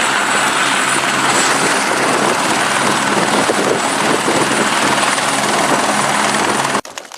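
Helicopter running steadily: a loud, even drone with a high whine above it, cut off abruptly near the end.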